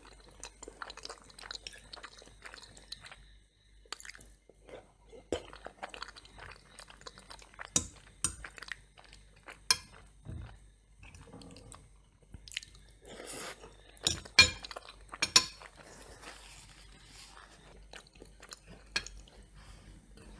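Close-miked chewing of macaroni and cheese and crunchy toast, with irregular sharp crunches and a few louder ones in a quick cluster about three-quarters of the way through.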